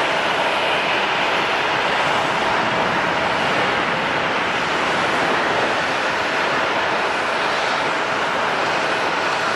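Jet airliner engines running: a loud, steady rush of noise with a faint steady whine in it.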